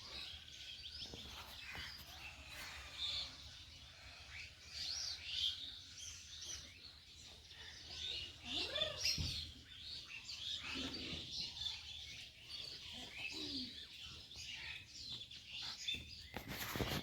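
Small birds chirping and twittering in many short, quiet calls.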